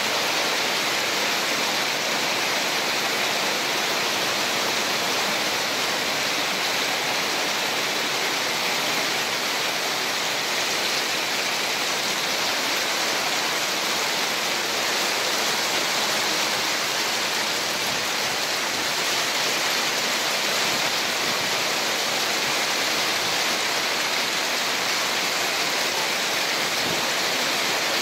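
Heavy rain pouring onto a polycarbonate carport roof, a steady, dense hiss, with runoff streaming off the roof edge.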